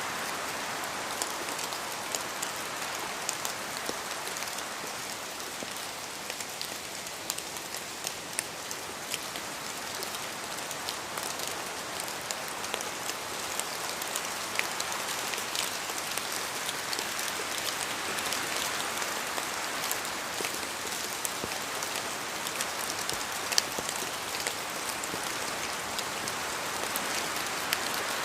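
Steady rain falling, with many sharp individual drop hits over an even hiss.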